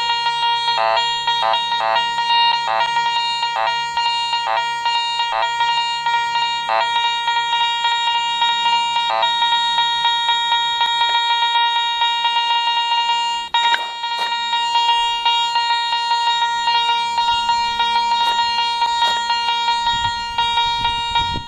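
Garrett Ace 200i metal detector sounding a steady, high-pitched target tone, broken by quick flickers, as its coil is swept back and forth over a tight cluster of coins and a gold ring. The tone drops out for a moment near the middle and stops at the end.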